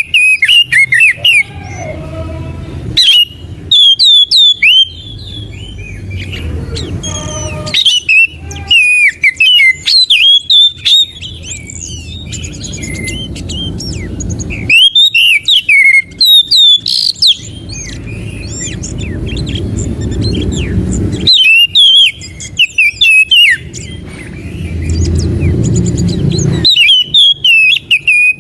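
Oriental magpie-robin (kacer) singing loud, varied phrases of quick sweeping whistles and chirps in bursts every few seconds, as a bait and tutor song for captive birds. A low rumbling background noise swells between the phrases.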